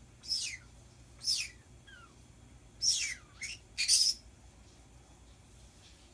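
Pet birds giving about five short, shrill calls in the first four seconds. Each sweeps quickly downward in pitch, and the loudest come close together around three to four seconds in.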